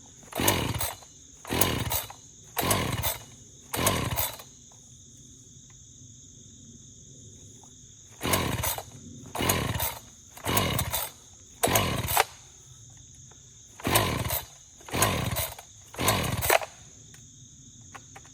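Echo CS-590 chainsaw's pull-start cord yanked eleven times in three sets of four, four and three, each pull turning the engine over briefly without it catching. Crickets chirp steadily underneath.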